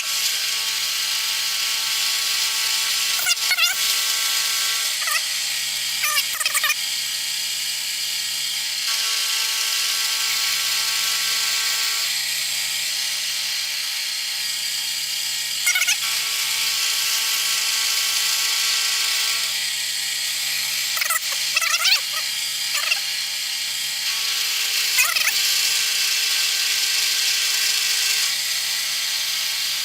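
Bridgeport milling machine taking a cutting pass in steel: a steady motor and spindle whine, with several short squeals from the cutter in the metal.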